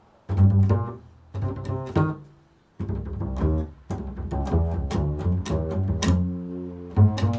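Upright double bass played pizzicato in an improvised line: a few low plucked notes, a brief pause, then a quicker, continuous run of notes.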